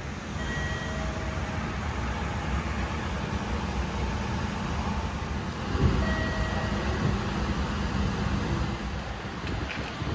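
Subway train at an underground station platform, a steady rumble with a single louder knock about six seconds in.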